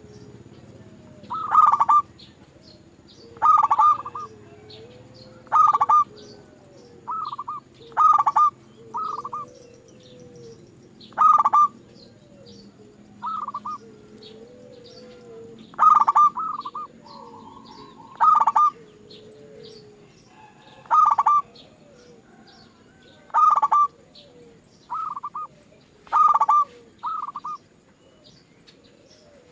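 Zebra dove (perkutut) cooing: short bursts of quick coo notes repeated about every two seconds, with fainter wavering calls underneath and faint high chirps from small birds.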